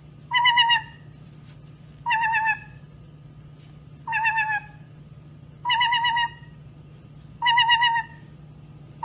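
A pet parrot giving the same short warbling call over and over, six times, about every two seconds. A steady low hum runs underneath.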